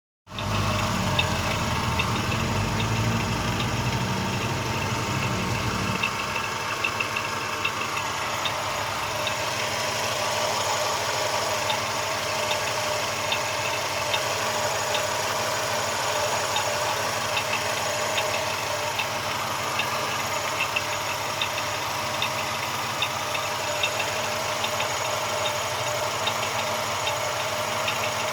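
Car engine idling with a steady, regular knock. A heavier low rumble drops away about six seconds in.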